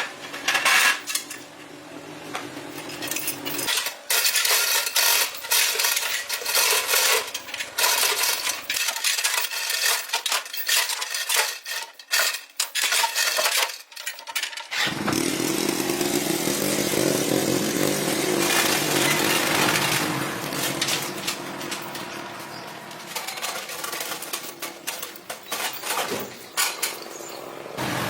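Metal clanking and scraping of tools against engine parts: many sharp knocks in the first half, then a steadier rough scraping noise.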